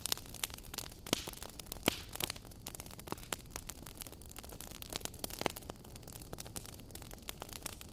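Fire crackling, a steady hiss dotted with many sharp pops and snaps; the loudest pops come a little after one second and just before two seconds in.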